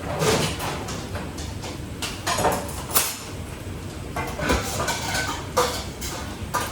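Kitchen clatter: pots, dishes and utensils knocking, clinking and scraping in an irregular string of short hits, a few with a brief ring.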